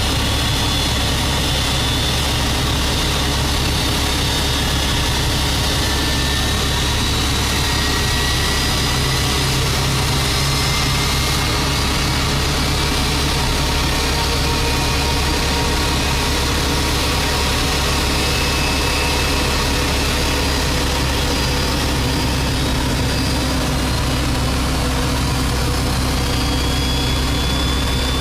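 Steady engine noise during an Airbus A321 pushback, with several faint high whines slowly rising in pitch, as from a jet turbine spooling.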